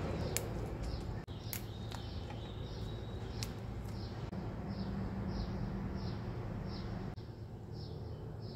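A small bird chirping over and over, a short falling chirp about twice a second, over a low steady hum. A few light clicks in the first few seconds come as green chillies are dropped into a stainless steel mesh strainer.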